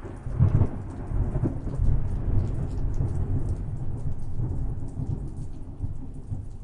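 Thunder rolling over steady rain: a loud clap about half a second in, then a long low rumble that slowly dies down. Rain hisses with fine drop patter throughout.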